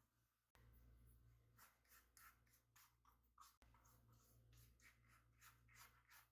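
Faint food-preparation handling sounds: a run of short, soft scraping strokes, about two or three a second, starting about a second and a half in, over a low steady hum.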